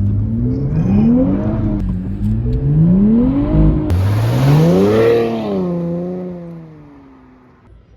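Twin-turbo V6 of a 2023 Nissan Z accelerating hard: the engine note climbs, drops at an upshift, climbs again, then drops at a second shift. A sharp snap with a burst of hiss comes at about the middle. After a third climb, the engine eases off and fades away.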